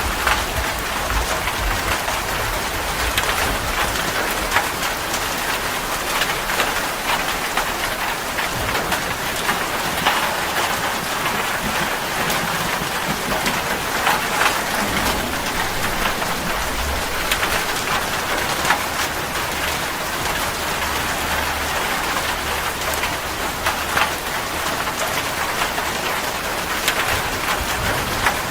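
Steady heavy rain falling on a surface, a constant wash dotted with many individual drop hits.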